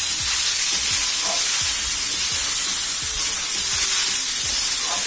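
Boiled chal kumra (ash gourd) leaves with onion and garlic frying in oil in a metal karai: a steady sizzle, with a metal spatula stirring and scraping them about three strokes a second.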